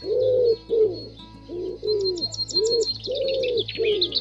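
Birds calling: a run of short, low, arching coo-like notes, about two or three a second, with high chirps above that turn into a fast trill near the end.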